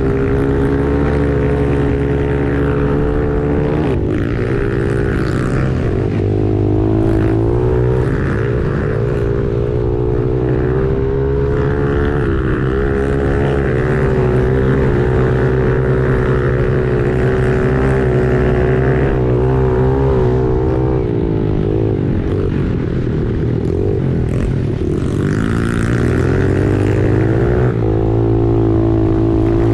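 Pit bike engine running continuously, its pitch rising and falling with the throttle through the ride.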